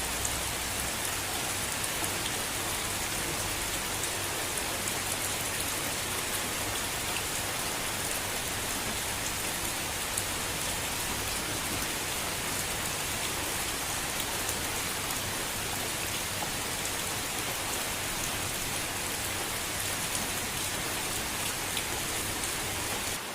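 Steady gentle rain falling, an even hiss with many small drop ticks, with no thunder.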